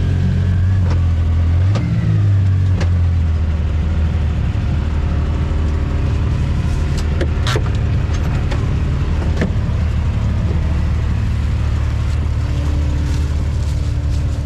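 Off-road vehicle engine running steadily at low revs, with a brief rise in revs about two seconds in. Scattered knocks and clicks sound over it, the sharpest about seven and a half seconds in.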